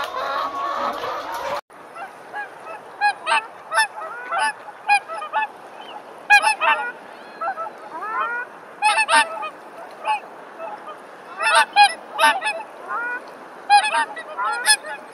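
For the first second and a half, caged laying hens clucking in a crowded hen house; then a sudden cut to geese honking, many short calls, some with a rising glide, coming singly and in quick clusters.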